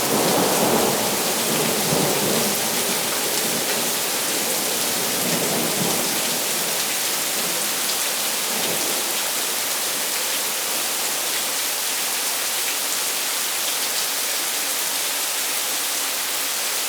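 Thunderstorm downpour: steady rain pattering on surfaces, with a low roll of thunder dying away over the first few seconds and a weaker rumble a few seconds later.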